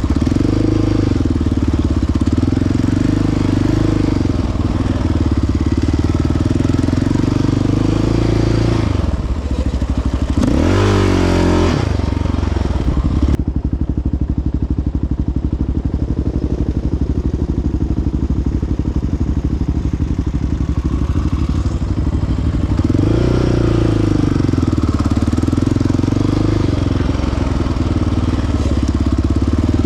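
Single-cylinder four-stroke sport ATV engine running along a trail, with a sharp rev up and back down about ten seconds in and a smaller swell in revs near twenty-three seconds.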